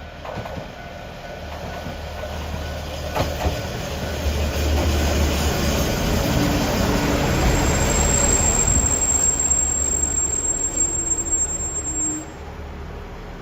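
Train running on the rails, its rumble growing louder, with a thin high-pitched wheel squeal from about halfway in that cuts off suddenly near the end.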